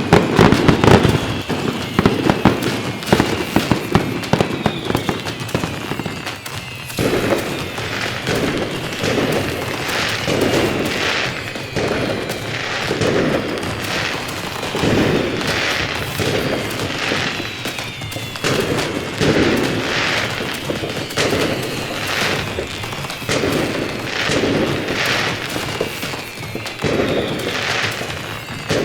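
Fireworks: a dense rapid crackle of firecrackers for the first several seconds, then bangs repeating evenly about once a second.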